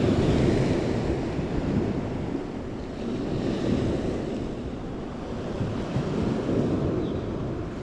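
Sea waves washing onto the shore: a steady rushing that swells and eases, with some wind on the microphone.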